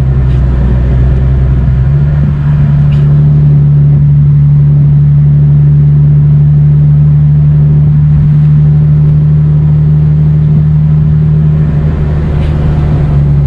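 Loud, steady drone of a car's engine and exhaust at a constant speed, holding one pitch with a slight step up about two seconds in rather than a rising rev.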